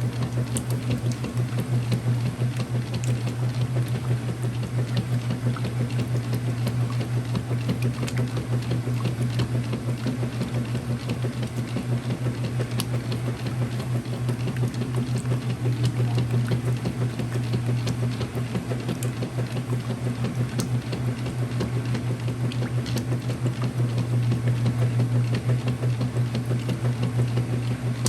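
Whirlpool direct drive top-load washer running its wash cycle: a steady low hum with water sounds over it.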